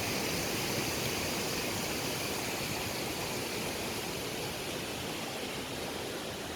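Steady rush of a mountain waterfall and the river it feeds.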